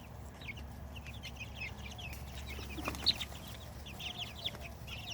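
A flock of baby chickens, including naked-neck Turkens, peeping continuously: many short, high chirps, each sliding downward in pitch, several a second.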